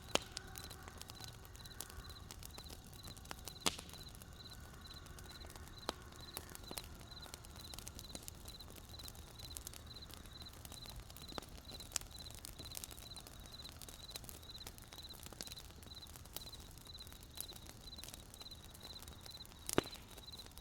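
Wood campfire crackling, with irregular sharp pops from the burning logs, some much louder than the rest. Behind it crickets keep up a steady, high-pitched chirping.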